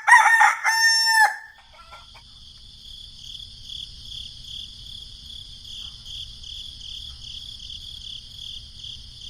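A rooster crowing once, loud, for about the first second. It gives way to a steady, evenly pulsing high insect drone, like crickets, over a faint low rumble.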